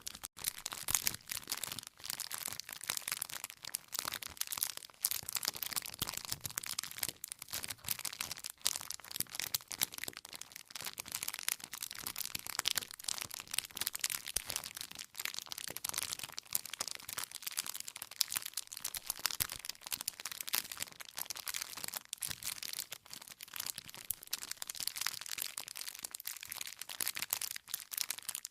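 Wood campfire crackling and popping continuously, with dense, irregular sharp snaps from the burning firewood.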